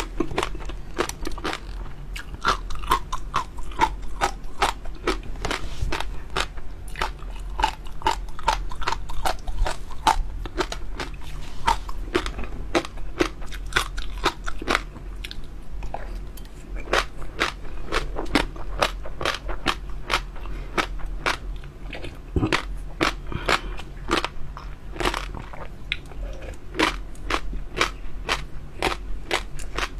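Close-up chewing and crunching of jelly pearls: a steady run of rapid, crackly crunches and wet chewing clicks, several a second, with no pause.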